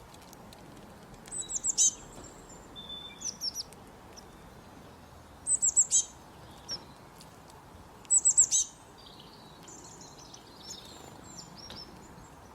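A bird singing: four short phrases of four or five quick, high, falling notes, spaced a few seconds apart, with a few fainter chirps after the last phrase, over a steady low hiss.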